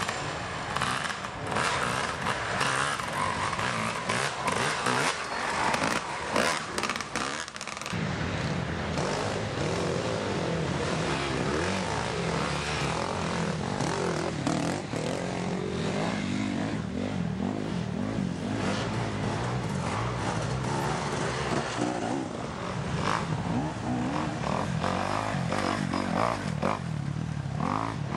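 Dirt bike engines running and revving as motorcycles race around an enduro-cross track. Many sharp knocks and clatters fall in the first third, after which a steadier engine drone takes over.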